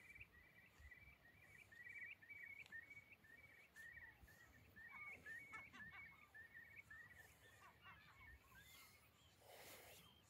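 Faint bird calls: many short chirps repeating close together, over a low wind rumble on the microphone, with a brief rustle near the end.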